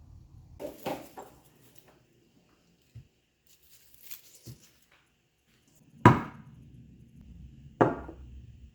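Kitchen knife chopping on a cutting board: a few light knocks, then two sharp, loud chops near the end.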